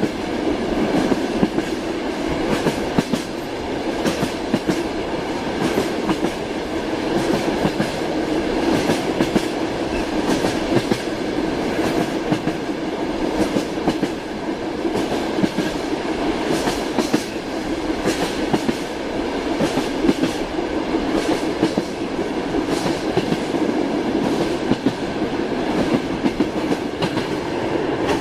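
Train wheels clattering over rail joints, a steady rolling rumble broken by frequent irregular clacks.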